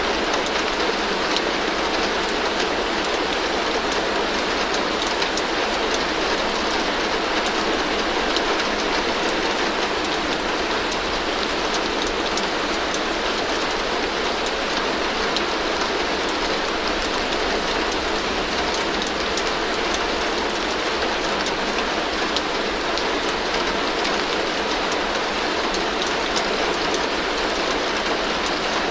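Heavy rain drumming steadily on a tin roof: a dense, even hiss dotted with sharp drop ticks, with no let-up or change.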